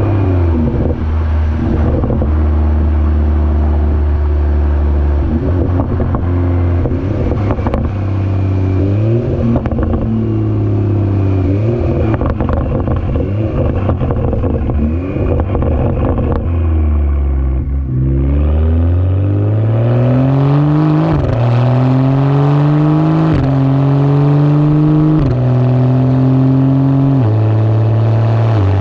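BMW F30 335i's turbocharged straight-six and exhaust on the road, holding a steady speed at first and slowing to low revs about two-thirds of the way in. It then accelerates through the gears: the revs climb and drop back at each upshift, about every two seconds, four times near the end.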